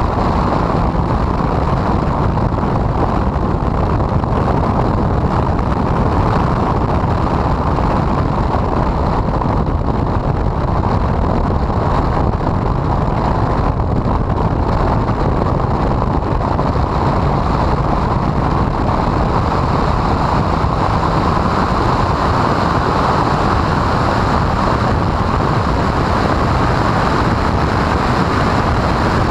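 Honda CRX lapping a race track, its engine, wind and road noise merged into a loud, steady, rough noise by a poor, overloaded microphone, with no distinct engine note standing out.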